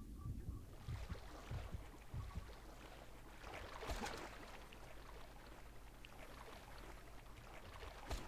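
Noise from a boat on the water: a low rumbling wash of water and wind, which swells into louder hissing splash-like noise about four seconds in.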